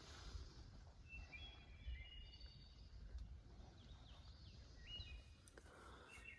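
Faint songbird calls, short thin whistled notes, some with quick pitch hooks, over a low steady rumble of wind on the microphone.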